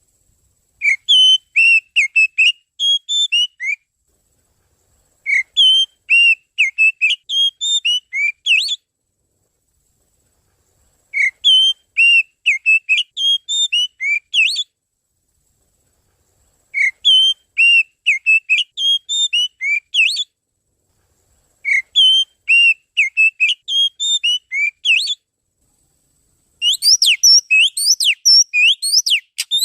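Oriental magpie-robin (kacer) song played as a bird lure: short phrases of quick, varied whistled notes, each about three seconds long, repeated five times with pauses of about two seconds. Near the end the notes turn denser and faster.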